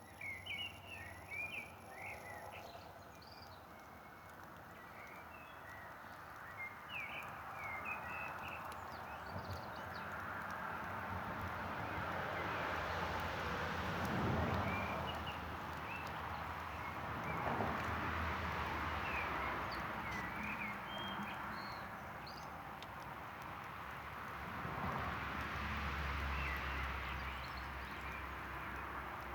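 Small birds chirping in short, quick calls, most busily at the start, over a rushing noise that rises and falls in several slow swells.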